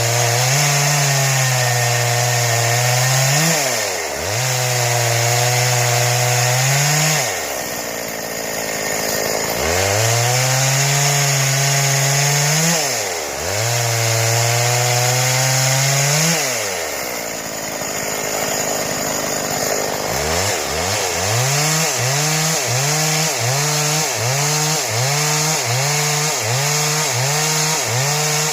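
Stihl two-stroke chainsaw cutting wood into boards: it revs up and holds high speed through the cuts, dropping back toward idle twice. Near the end it surges up and down in quick even pulses, about one and a half a second.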